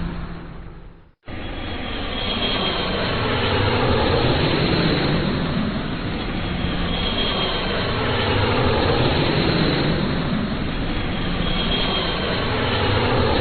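Jet aircraft flying past: a loud, steady rushing roar with a faint high whine, its pitch sweeping slowly up and down. About a second in, the sound fades out briefly and then cuts back in.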